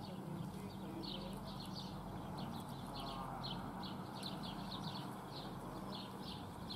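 Small birds chirping in the background, short high notes repeated a few times a second in irregular groups, over a steady low hum.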